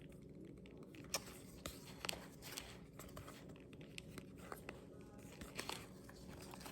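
Trading cards being slid and flipped through by hand, with faint scattered soft clicks and paper-like rustling.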